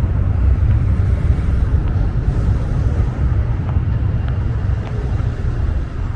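Outdoor city ambience dominated by a loud, steady low rumble with a noisy hiss above it, easing slightly near the end.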